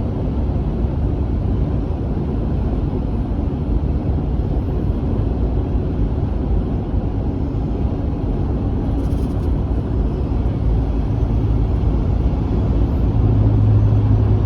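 Semi truck's engine and road noise heard from inside the cab: a steady low rumble, with a low hum growing stronger near the end.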